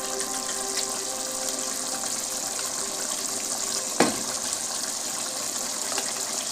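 Chicken cooking in its own released juices in the pot, a steady sizzling hiss. A single sharp knock comes about four seconds in.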